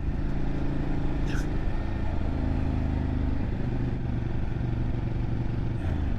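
Motorcycle engine running at steady speed while riding, dropping to a lower engine note about halfway through, with one brief short sound about a second in.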